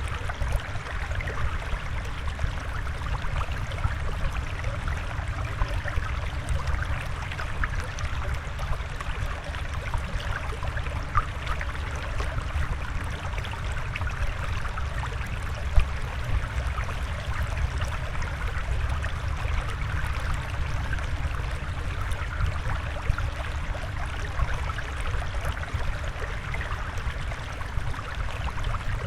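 Steady flowing water, trickling and gurgling with many tiny droplet ticks over a low rumble.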